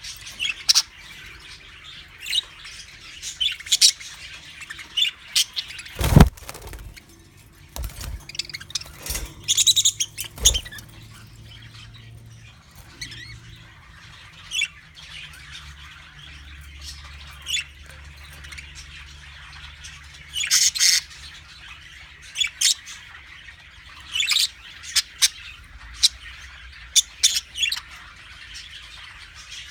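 Budgies chirping and squawking in a cage, a steady scatter of short, high calls, with a few sharp knocks in the first half, the loudest about six seconds in.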